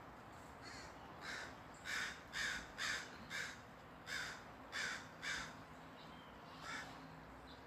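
Crows cawing: about ten short, harsh caws in quick runs of two or three, some louder than others.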